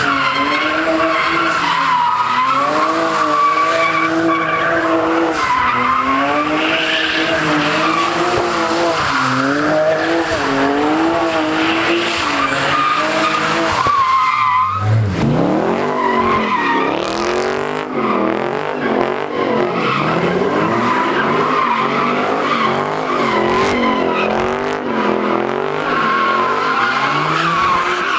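A car drifting with its tyres screeching throughout, while the engine revs up and down in quick waves. About halfway through the revs drop low and sweep back up.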